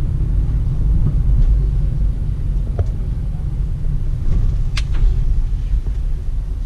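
Cabin noise inside a moving Peugeot Partner van: a steady low rumble of engine and road. A few brief clicks sound over it, the sharpest nearly five seconds in.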